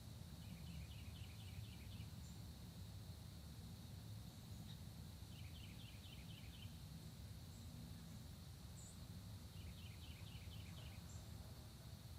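A songbird singing three short phrases, each a quick run of repeated down-slurred notes, about four to five seconds apart. Under it runs a steady, faint high insect buzz.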